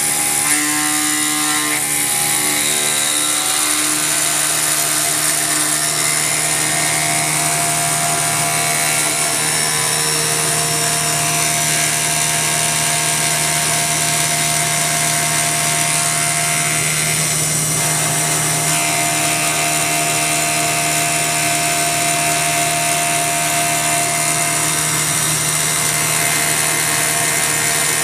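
CNC milling machine's belt-drive spindle running with the cutter in a continuous cut through metal: a steady machining whine and cutting noise.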